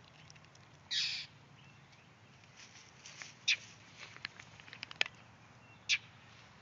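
A few short, harsh animal calls, the loudest about a second in and two more later, with small clicks and scuffles between them.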